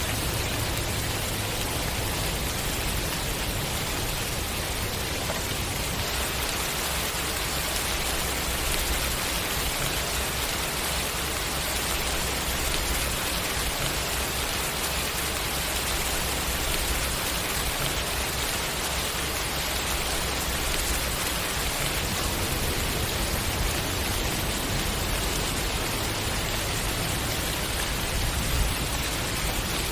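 Steady rainfall, an even hiss of many drops falling on surfaces, with a low rumble underneath.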